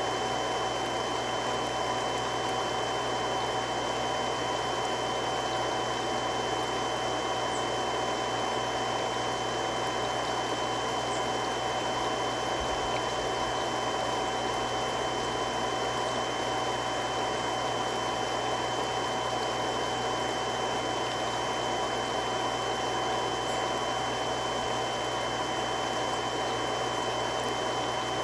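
Three-stage irrigation water pump running steadily: an even rushing hum with a few constant whining tones over it.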